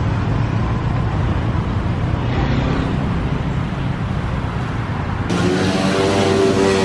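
A car driving: steady engine and road noise. About five seconds in the sound turns brighter and a pitched engine note appears and climbs slightly.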